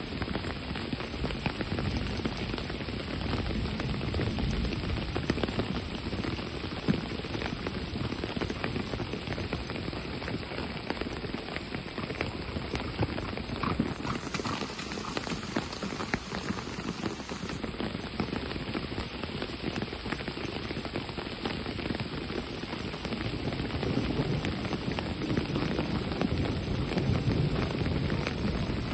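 Steady rain falling, a dense hiss of many small drop ticks.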